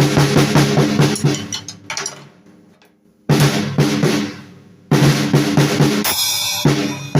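Drum kit played freely in runs of rapid hits on the drums, with the drums ringing between strokes. There is a brief lull about halfway through before the hits start again.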